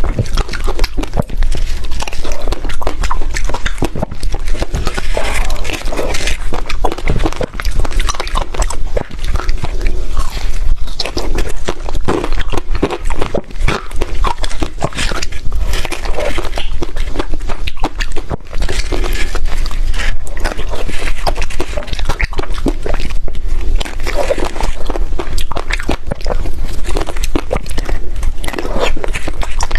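Close-miked biting and chewing of hard, crunchy 'ice crisp' (冰酥) blocks: dense, continuous crunching and crackling, loud throughout.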